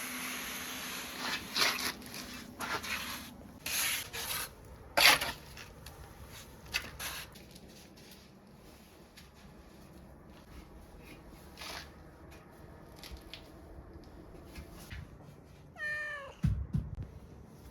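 Scattered knocks and scraping, the loudest about five seconds in, and near the end one short wavering animal call.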